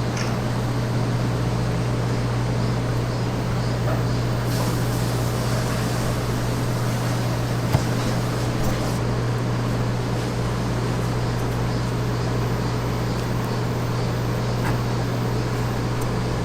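A machine's steady low hum over an even background noise, with a few faint clicks; it cuts off suddenly at the end.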